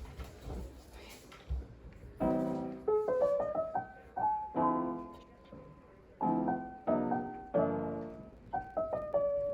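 Background piano music: after a faint low hum, soft piano chords and a melody begin about two seconds in and play in short repeated phrases.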